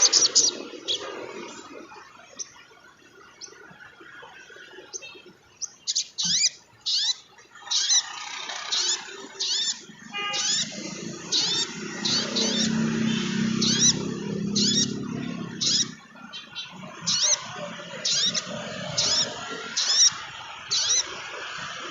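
Sunbird calling: a series of short, sharp, high chirps, each with a quick pitch flick, coming roughly once a second from a few seconds in. A low hum sits under the chirps for a few seconds in the middle.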